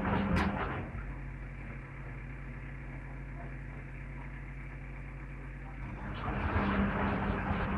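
Servis Gem M310 washing machine's drum turning a wet bedding load on a Cottons 95 wash. It stops with a click less than a second in and leaves a steady low hum for about five seconds, then starts turning again about six seconds in: the drum's back-and-forth wash action.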